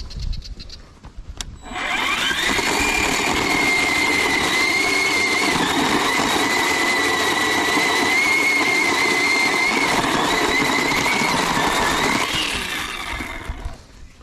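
A small motor switched on, spinning up to a steady high whine, running for about ten seconds, then winding down.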